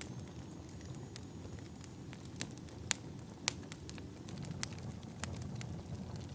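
Wood fire in a fireplace crackling: a low steady rumble of burning logs with irregular sharp pops, the loudest two a little before and a little after the middle.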